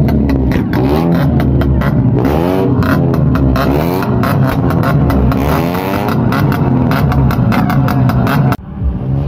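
Modified car engine revving repeatedly, its pitch rising and falling in several swells, with rapid sharp crackles. The sound cuts off abruptly near the end.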